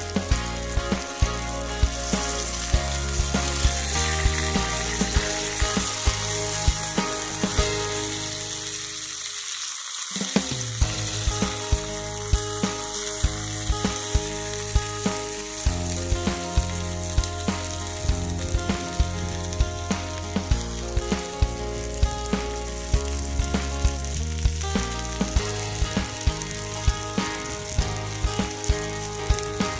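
Meat sizzling and frying in a skillet, with a steady high hiss that is strongest in the first third. Background music with changing bass notes and a regular beat plays throughout.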